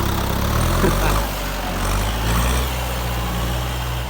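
Kubota M6240 tractor's diesel engine idling steadily at an even pitch.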